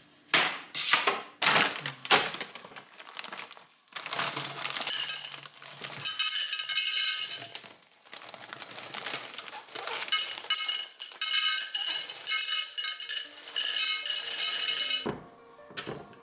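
Clinking and rattling of glass and kitchenware. A few sharp knocks come in the first two seconds, then several one-to-two-second stretches of scraping and rattling with a ringing, glassy tone.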